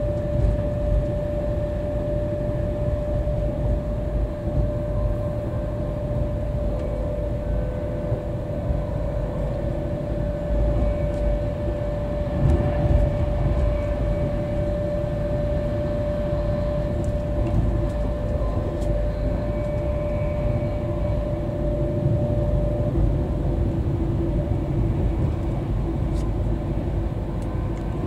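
Interior running noise of a Class 390 Pendolino electric train at speed: a steady low rumble of the wheels on the track, with a steady mid-pitched tone that stops about three quarters of the way through.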